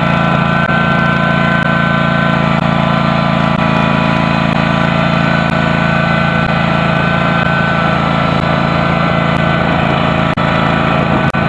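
Engine of a custom John Deere garden tractor running steadily at an even speed, with a faint whine above the engine note.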